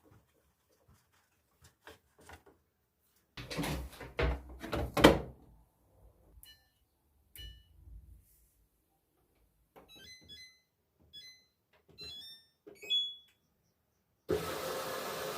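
Kitchen handling sounds: knocks and a clatter of dishes or utensils being put down, then a run of short ringing clinks, and a steady rush of noise that starts near the end.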